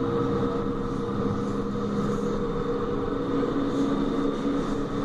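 Tram running, heard from inside the car: a steady rumble of wheels on rails with a steady motor hum.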